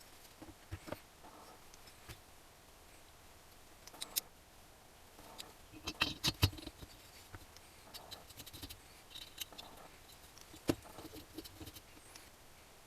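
Scattered light clicks and taps of small metal parts and hand tools being handled during engine assembly, with a brief cluster of louder clinks about halfway through and one sharp knock near the end.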